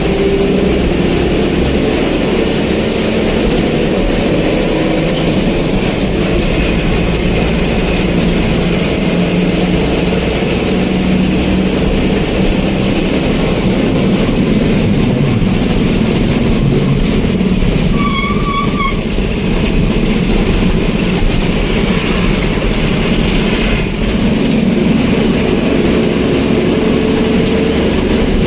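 Road vehicle on the move: steady engine and road noise, its pitch drifting slowly with speed. A short high tone like a horn sounds about two-thirds of the way through.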